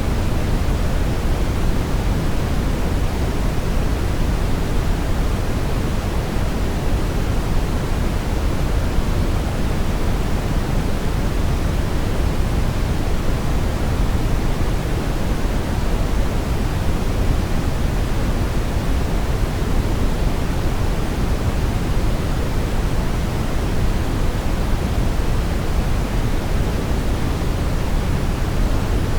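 Brown noise: a steady, even rumbling hiss weighted toward the low end, unchanging throughout.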